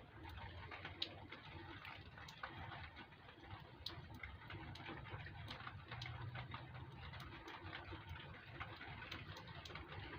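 Faint handling noises of hand work on parts: scattered light clicks and taps, a sharper click about a second in and another near four seconds, over a low steady hum.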